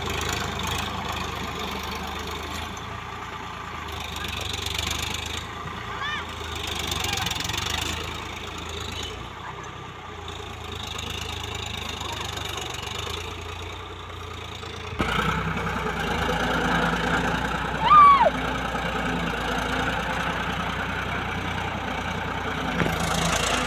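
Tractor engine running steadily, with an abrupt change about fifteen seconds in after which it is louder. A short sliding high-pitched call comes about six seconds in and a louder one about eighteen seconds in.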